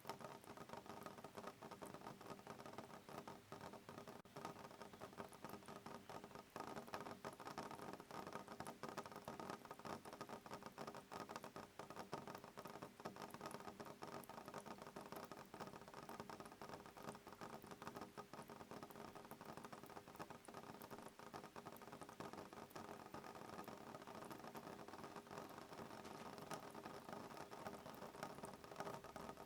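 Soft rain pattering on a window pane: a faint, dense, even patter of small drops.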